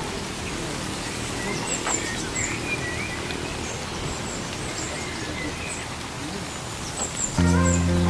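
Birds chirping in short calls over a steady outdoor background hiss. Near the end, music with steady held notes comes in.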